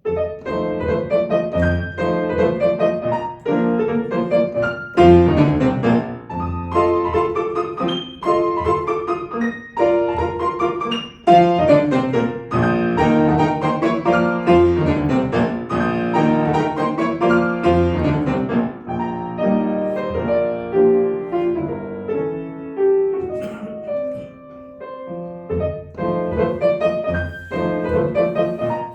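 Solo piano playing classical music: full chords and runs sweeping up and down, with louder and softer passages.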